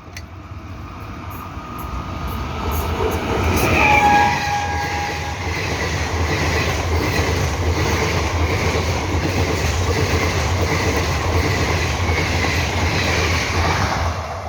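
Passenger train running past at speed: a steady rumble with wheels clattering over the rail joints, loudest about four seconds in. A short high tone sounds briefly at that point.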